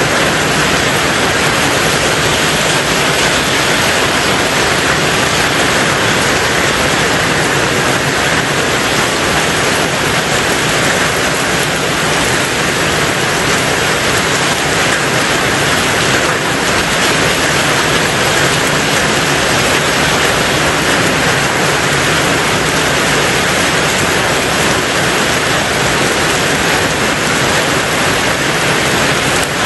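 Heavy, steady rain on a tin roof, a dense even hiss of drops with no breaks.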